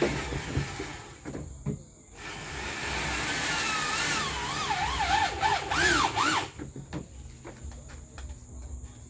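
Electric drill boring a hole: a short burst, then a longer run with a whine that wavers up and down as the motor speeds and bogs. The bit is slipping in a loose chuck.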